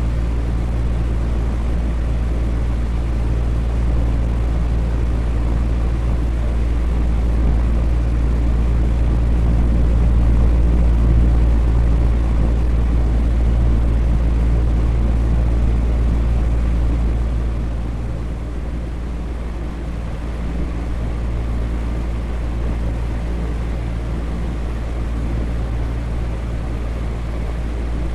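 Electric fan running steadily: an even whooshing of moving air over a deep motor hum, easing slightly quieter about two-thirds of the way through.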